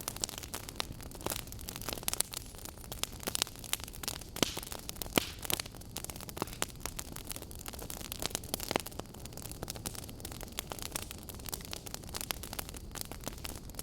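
Burning logs in a wood fire crackling, with a steady soft hiss and many irregular sharp pops and snaps, a few of them louder than the rest.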